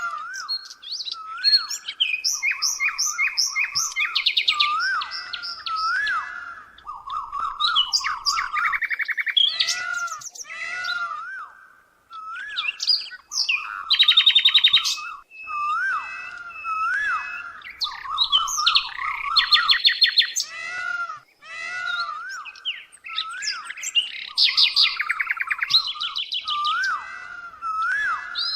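Birdsong: several birds chirping and calling at once, with repeated curling notes about once a second and fast high trills over them, without a break.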